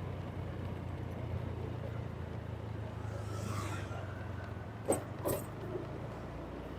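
A vehicle's engine running at a low, steady idle amid street traffic. A passing vehicle swells and fades about halfway through, and two sharp clicks come about five seconds in.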